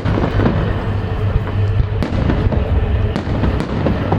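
Fireworks salute going off: many sharp bangs at irregular intervals over a continuous low rumble, with one stronger bang about two seconds in.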